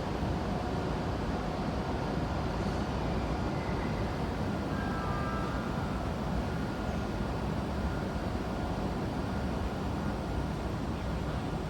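E7 series Shinkansen train at a station platform: a steady low rumble, with a few faint brief high tones near the middle.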